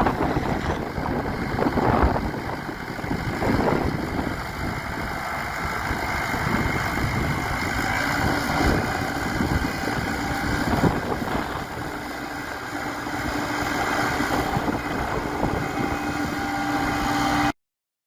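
Massey Ferguson 5455 tractor's diesel engine running steadily, with some wind noise on the microphone. The sound cuts off abruptly near the end.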